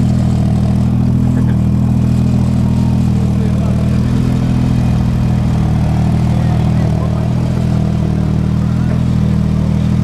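Turbocharged Toyota 2JZ-GTE straight-six idling steadily.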